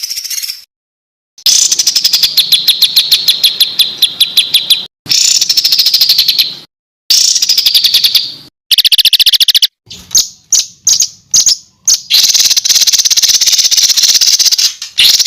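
Edited series of songbird recordings used as contest-bird tutor song: dense, harsh rapid trills of quickly repeated high notes, each phrase cut off abruptly into silence before the next starts. Near the middle, a run of short separate bursts.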